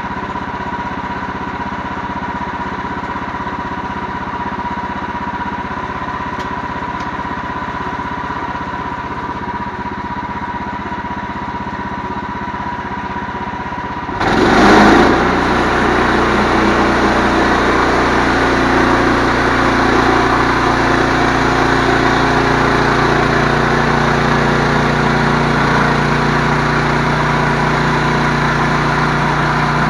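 Engine running steadily with a thin steady whine, then about halfway through it suddenly gets louder and settles into a heavier, steady run.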